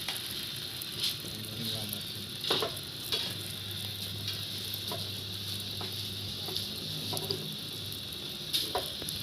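Steady fine hiss of water being sprayed or splashed while a zebra dove is bathed, with a few short sharp clicks and taps scattered through it.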